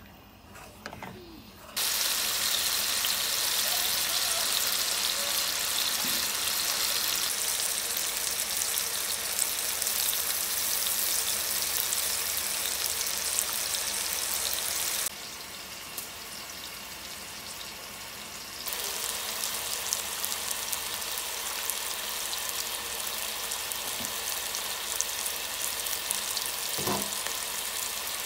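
Food sizzling in hot oil in a pan, a dense steady frying hiss. It starts abruptly a couple of seconds in, drops away for a few seconds past the middle, then comes back slightly quieter.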